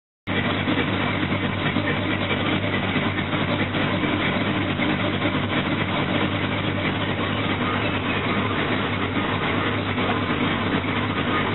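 Vehicle engine idling steadily, starting abruptly just after the beginning.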